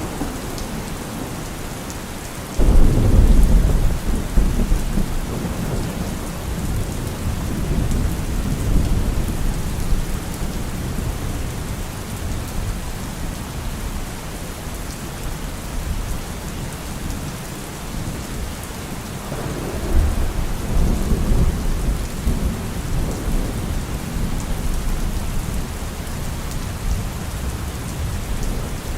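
Heavy rain falling steadily on a car roof, with thunder. A sudden loud thunderclap about three seconds in rumbles on for a few seconds, and a second roll of thunder comes about twenty seconds in.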